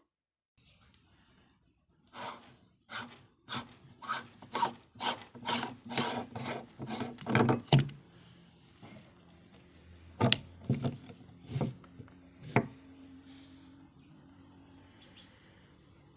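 Meat grinder crushing peanuts: a run of short crunching, rasping strokes about two a second, then after a pause four more spaced strokes.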